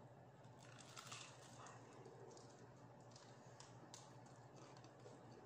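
Faint mouth sounds of someone biting into and chewing crispy fried chicken: a scatter of small crunches and wet clicks, over a low steady hum.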